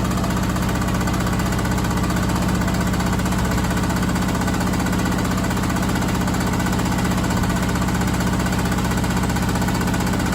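Candy SmartTouch washing machine on its final spin with a badly unbalanced load: a loud, fast, steady hammering rattle as the drum and cabinet shake. It sounds like it's about to collapse.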